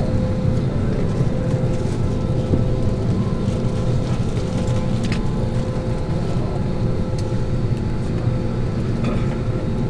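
Steady drone of the air-conditioning inside an Airbus A320 cabin parked at the gate, a low hum with a faint constant whine, with a few light clicks about halfway through.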